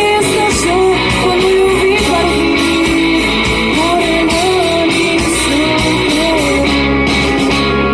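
Live rock band playing loudly, an electric guitar carrying a bending melody line over the full band.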